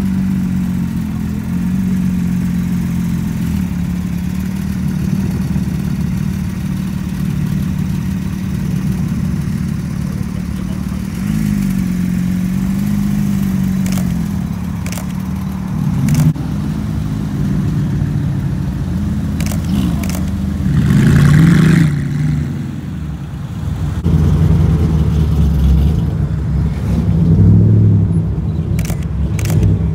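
Sports car engines running and revving in turn, pitch rising and falling several times, loudest a little past the middle; the first is a Porsche 911 GT3 RS's flat-six as it pulls away. A few camera shutter clicks near the end.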